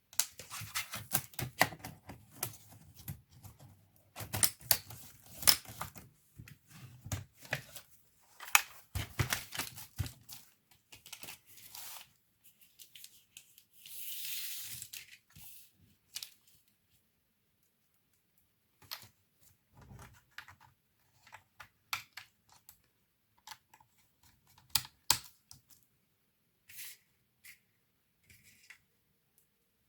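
Parts of an HP 630 laptop being handled by hand: irregular clicks, taps and rustles of plastic and metal, with a short hiss about halfway through and sparser clicks after a brief pause.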